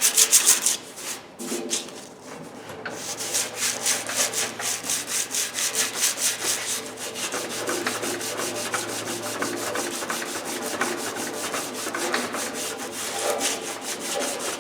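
Hand sanding the steel of an old Craftsman toolbox: rapid back-and-forth scratching strokes, about four a second, with a brief pause near the start.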